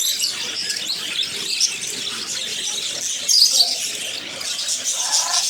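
A flock of small aviary birds chirping and chattering, many high calls overlapping without a break, a little louder about three and a half seconds in.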